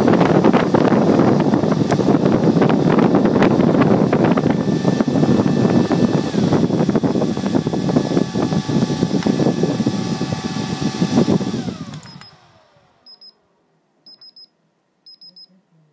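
Four Delta AFC0912DE 92 mm high-speed fans running flat out with a loud air rush and a steady whine. Near the end the fans switch off and spin down, the whine sliding down in pitch as the noise dies away. A few short, high electronic beeps follow, evenly spaced.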